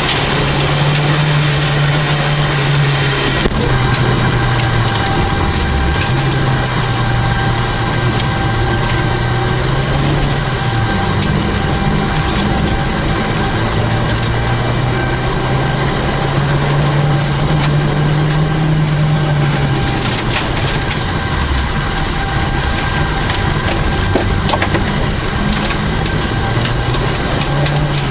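Rally car's engine, a 1989 Toyota Celica GT4's turbocharged four-cylinder, driven hard from inside the cabin: its pitch climbs and then falls at each gear change, several times, over steady tyre and gravel noise.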